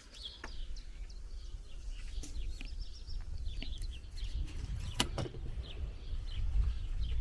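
Small birds chirping now and then, with a couple of sharp clicks, one about half a second in and a louder one near five seconds, over a low rumble.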